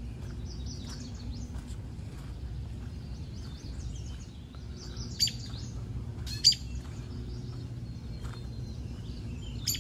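Wild birds chirping and calling, with two sharp, loud calls about five and six and a half seconds in, over a steady low background noise.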